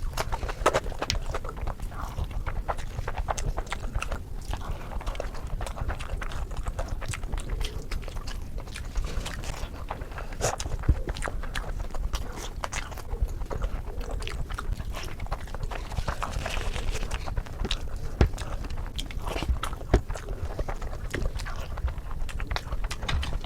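Close-miked chewing and lip-smacking while eating spicy fish curry, a steady run of small wet clicks and smacks.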